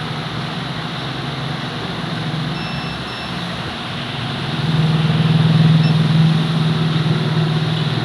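A vehicle engine running steadily, a low hum under broad noise that swells louder about four and a half seconds in.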